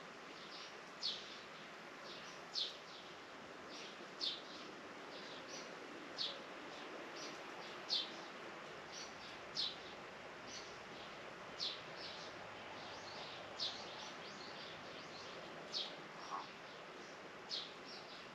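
A bird chirping over and over, a short sharp high chirp about every one and a half to two seconds with fainter chirps between, over a steady outdoor hiss.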